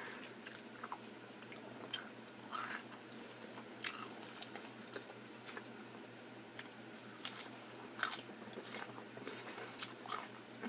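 A person chewing salad close to the microphone: irregular soft crunches and small mouth clicks.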